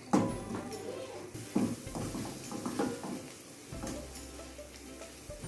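Wooden spoon stirring shredded collard greens in a stainless steel frying pan, knocking and scraping against the pan a few times, the loudest knock right at the start, over a light sizzle.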